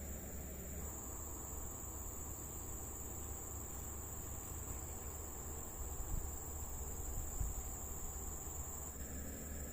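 Night insects in the forest trilling in a steady, high-pitched chorus over a low background rumble, with a couple of soft low bumps about six and seven seconds in.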